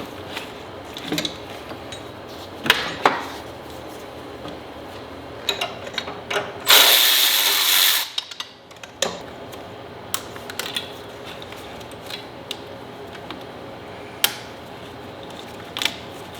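Hand tools working on a car engine: scattered ratchet clicks and light metal knocks and clinks. About seven seconds in, a loud hiss lasts about a second.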